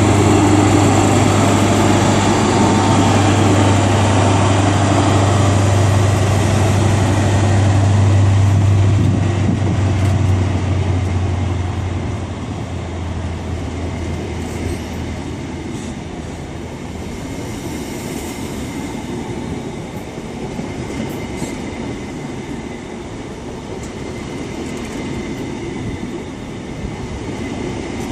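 Great Western Railway passenger train pulling out of the station: a loud, steady low engine drone for the first ten seconds or so, fading as the train moves away and leaving quieter wheel-on-rail noise.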